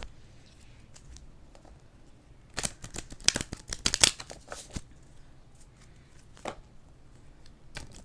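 A deck of tarot cards shuffled by hand: a quick run of card snaps and riffles starting a couple of seconds in, then one more snap later.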